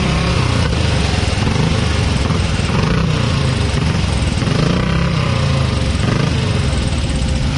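Motorcycle engine running steadily, its note rising and falling briefly about halfway through.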